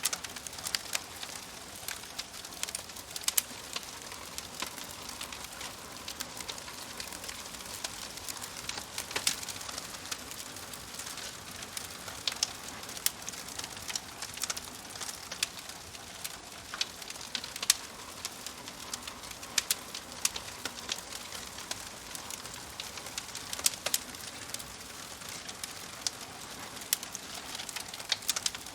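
Fire crackling: a steady hiss with frequent sharp pops and snaps at irregular intervals.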